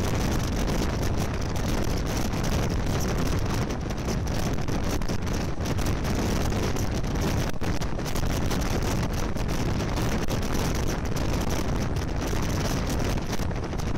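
A moving train heard from an open window: a steady rumble of the train running along the rails, with wind blowing on the microphone.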